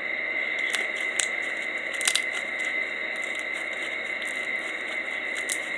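Foam-bead slime being squished in the hands, with scattered small pops and crackles from the beads.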